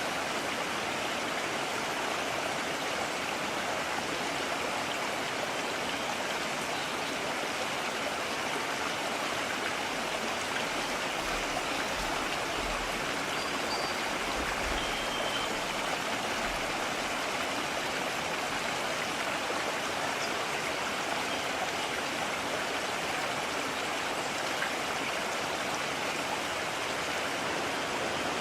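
Mountain stream running, a steady unbroken rush of water.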